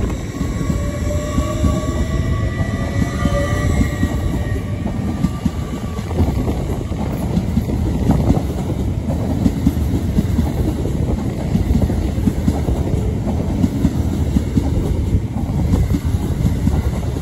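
LNER Azuma high-speed train running past along the platform: a steady rumble of wheels on rail. A high whine of several tones sits over it for roughly the first five seconds, then fades.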